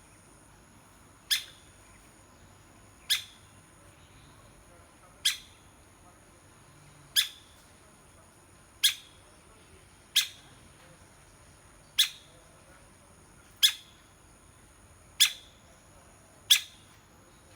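A woodpecker giving short, sharp single call notes, evenly spaced about one every second and a half to two seconds, about ten in all.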